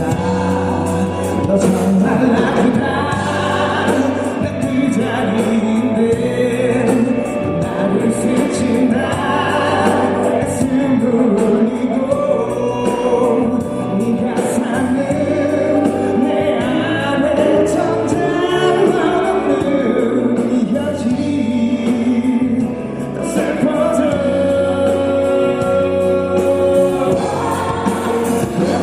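A male singer performs a pop ballad live over instrumental accompaniment, with long held sung notes, heard as an audience recording in a concert hall.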